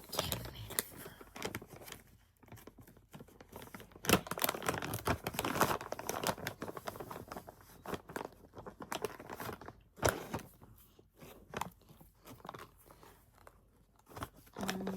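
Plastic snack packaging crinkling and rustling as it is handled, in irregular sharp crackles with louder bursts about four seconds in and again near ten seconds.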